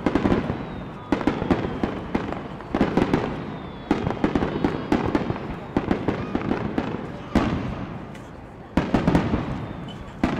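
Aerial firework shells bursting in quick succession, about one heavy boom every one to two seconds, each trailing off in crackle and echo.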